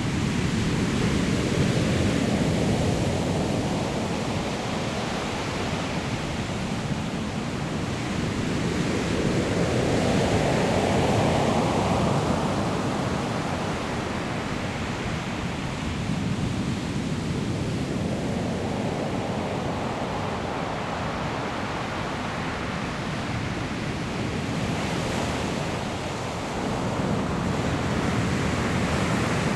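Sea waves crashing on a pebble shore: a steady wash of surf that swells and falls back as each wave breaks, about every eight to ten seconds.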